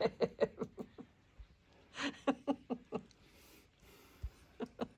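A person chuckling quietly in short bouts of rapid laughter, a burst at the start, another about two seconds in and a couple of short ones near the end.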